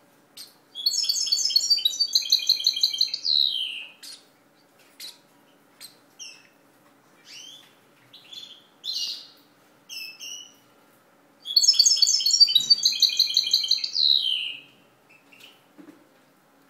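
Young pet bird calling hungrily for food: two runs of rapid, repeated high begging calls of about three seconds each, the second about eleven seconds in, each ending in a falling note, with single short chirps between.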